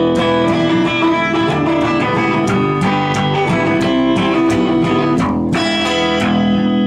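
Band playing live, with electric guitar to the fore over regular sharp percussive hits. After a brief break about five seconds in, a low note is held and rings on.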